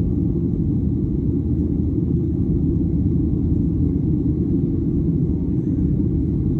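Steady low rumble of an airliner in flight after takeoff, the engines and airflow heard from inside the passenger cabin.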